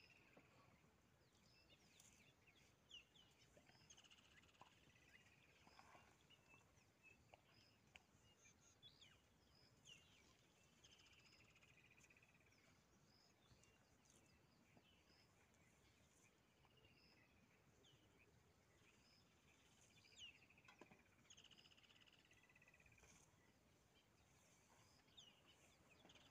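Near silence with faint wild bird calls: scattered chirps and short falling trills.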